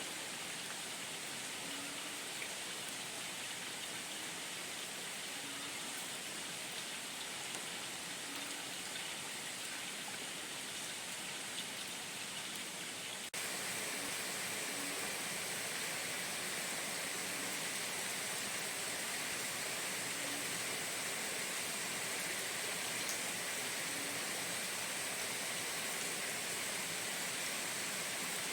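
Steady, even rain hiss. About halfway through it cuts abruptly to a slightly louder, hissier stretch of rain, as at a splice between recordings.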